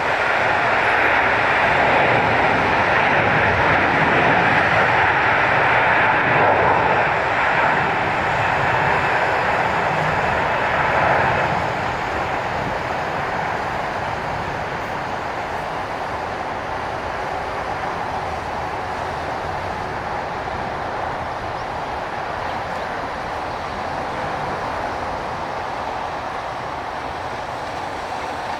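Twin-engine Airbus A330 jet taking off: loud engine roar at takeoff thrust for about the first eleven seconds, then dropping off and fading to a steadier, fainter rumble as the aircraft moves away.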